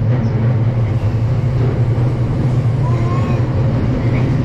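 Electric commuter train running at speed, heard from inside the carriage: a steady, loud low rumble of wheels on rail, with a faint brief higher tone about three seconds in.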